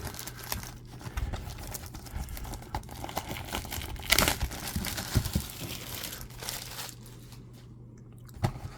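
Crinkling and tearing of packaging as a Topps Heritage trading-card box is opened by hand, with a louder rip about four seconds in, then quieter handling.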